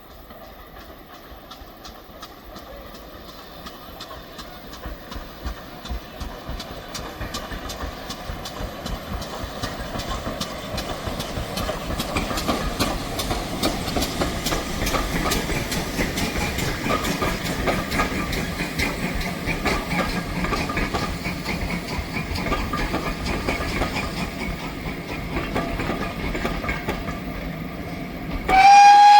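A train drawing steadily closer, its running getting louder with quick rhythmic clacking. Just before the end a steam locomotive's whistle starts sharply and is held.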